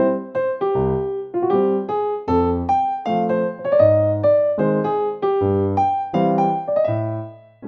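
Background music: a light, bouncy electric-piano tune with a bass line, played in quick, even notes.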